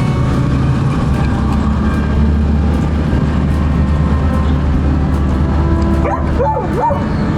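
Dog barking and yelping over a steady low rumble of wind and riding noise on the microphone. A wavering, rising and falling yelp comes near the end.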